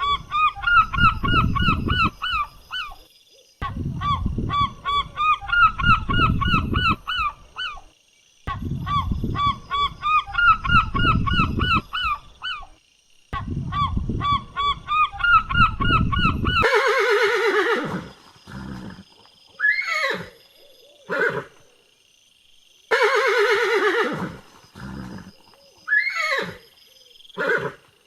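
A flock of geese honking: rapid, repeated calls in four runs with short breaks, like a looped recording. About 17 seconds in, it changes to a horse whinnying in several separate loud calls with pauses between them.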